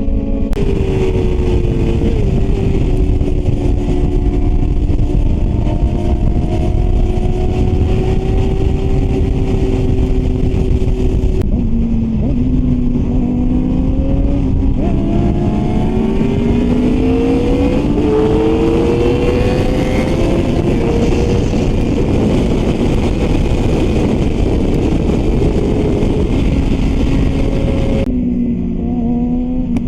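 Yamaha R6 sport bike's inline-four engine running at high revs over heavy wind rush. About halfway through, the pitch dips and then climbs steadily as the bike accelerates, before levelling off.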